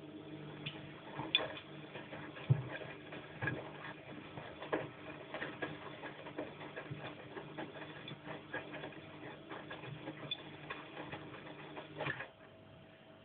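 Bosch washing machine drum turning in the wash cycle: a steady motor hum with irregular clicks and knocks, cutting off suddenly near the end as the drum pauses in its wash rhythm.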